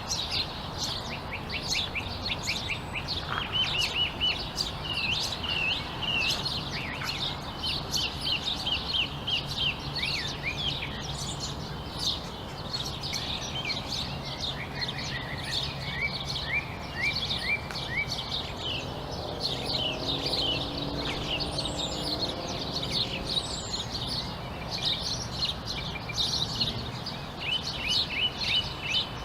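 Many small songbirds chirping together, a dense run of rapid, high, overlapping chirps and short trills that never stops.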